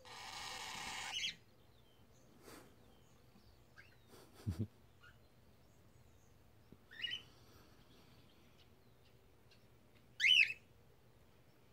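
Cockatiel calls: a short chirp partway through, then a louder warbling call near the end. A hiss at the start cuts off abruptly about a second in, and a couple of soft knocks come around the middle.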